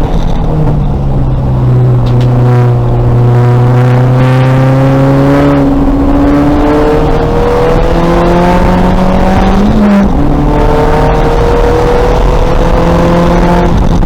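2000 VW Golf race car's engine pulling hard under acceleration, its pitch climbing steadily through each gear. There are upshifts about six seconds and about ten seconds in, each dropping the pitch before it climbs again.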